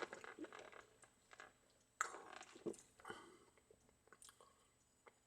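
Faint mouth sounds of a person sipping and swallowing a soft drink: a few short, soft noises near the start and about two to three seconds in, otherwise near silence.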